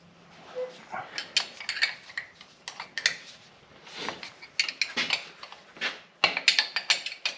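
Hand tools clinking and clicking against steel parts in irregular, quick knocks while bolts on a tractor's hydraulic remote valve are worked loose.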